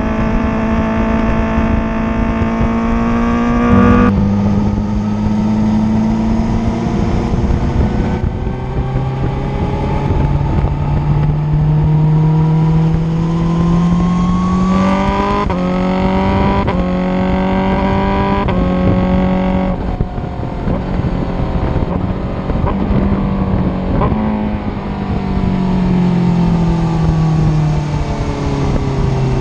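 2022 Honda CBR1000RR-R SP's inline-four engine running and being revved, its pitch climbing, dropping and stepping up and down several times.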